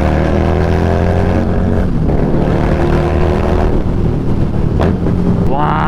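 Harley-Davidson Street Rod 750's V-twin engine running under way, its note climbing slightly at first. There is a brief break about two seconds in, then it pulls on steadily.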